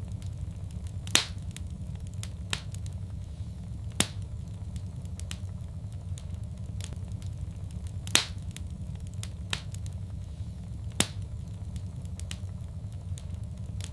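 Wood fire crackling: a steady low rumble of burning with sharp pops. Four loud ones come a few seconds apart, with fainter ticks between.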